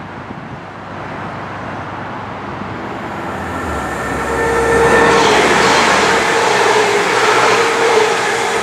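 Manchester Metrolink tram running past, its rail noise and steady motor tones building from about three seconds in and staying loud.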